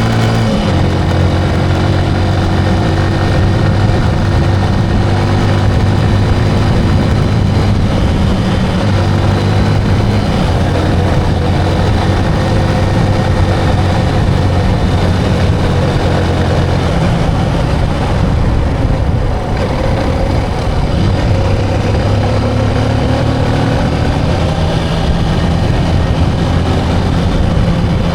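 Motorcycle engine running while riding on the road. The engine note holds steady, then shifts in pitch a few times.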